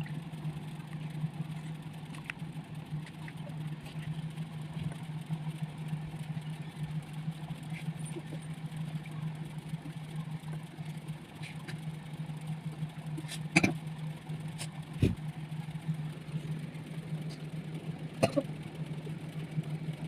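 A steady low machine hum, with a few short knocks in the last third.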